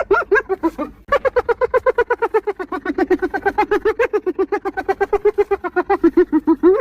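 Spotted hyena giggling: a short burst of rapid high yelping notes, a brief break about a second in, then a long unbroken run of about nine notes a second, rising a little in pitch near the end.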